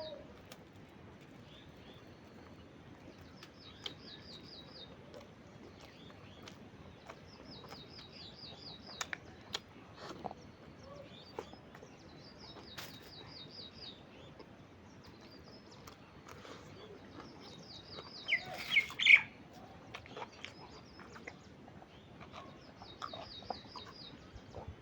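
A small bird singing a short, high, rapid trill, repeated every few seconds, over faint scattered clicks. A brief, louder burst of sharp calls about three-quarters of the way through.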